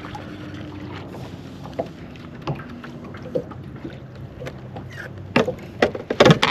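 Knocks and taps on a small fishing boat over a steady low hum, with a cluster of louder knocks near the end.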